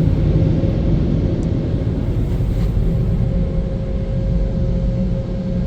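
Car wash tunnel's blower dryers running, a loud steady rumble of rushing air with a faint steady hum, heard from inside the car.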